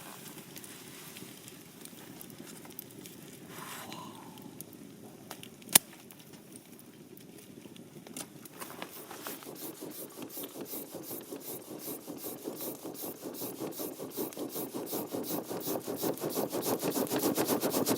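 Applause from a small group of people, starting about eight seconds in and growing louder and denser toward the end. A single sharp knock about six seconds in.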